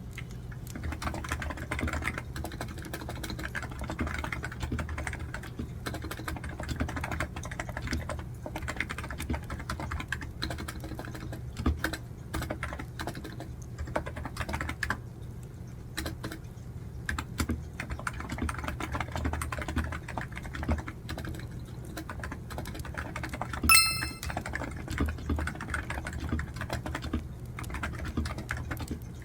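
Computer keyboard typing, with fast, irregular keystrokes in continuous runs and brief pauses. About three-quarters of the way through there is one short, bright, ringing tone, louder than the typing.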